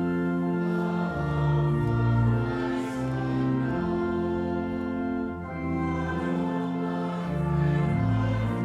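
Slow church music: a choir singing sustained, held chords that change about once a second over a steady bass line.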